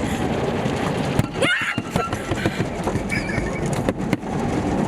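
Automatic car wash heard from inside the car: a dense rush of water spray and brushes on the body, which drops away about a second in. Irregular knocks and thumps on the car follow, with a short rising voice-like cry.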